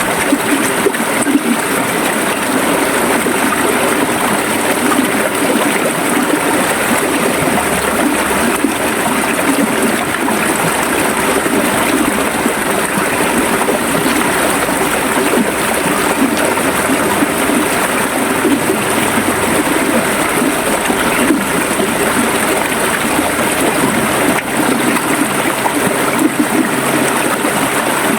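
River water flowing and gurgling over rocks, a steady rushing splash.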